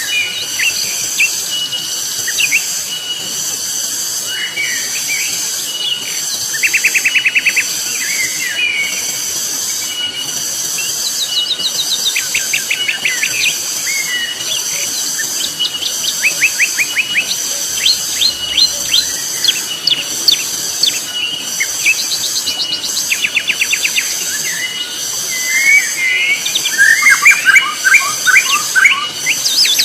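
Loud, shrill cicada chorus with a steady, evenly pulsing high drone. Birds call over it in quick trills and chirps, most strongly near the end.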